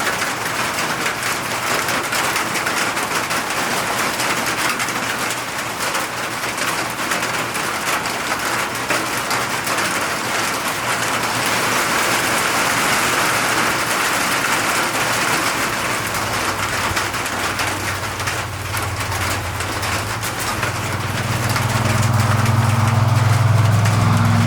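Steady rain falling, an even hiss. About two-thirds of the way in, a low engine hum comes in and grows louder toward the end.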